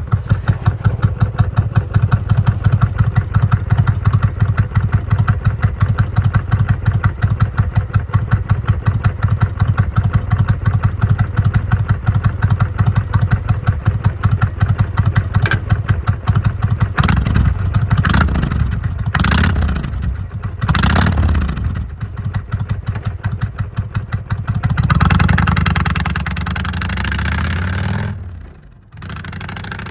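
Kawasaki Vulcan 1500 Classic V-twin running through a Vance & Hines full exhaust with left and right exits: a steady pulsing idle, then four quick throttle blips about two thirds of the way in and a longer rev near the end before it settles back to idle.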